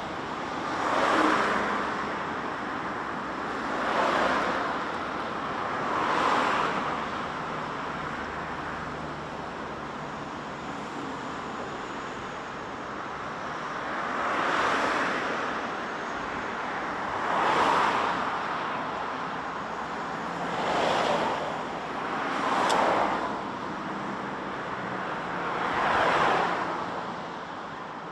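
Highway traffic: cars passing one after another, each swelling up and fading over a second or two, about eight in all, with a steady road hum between them.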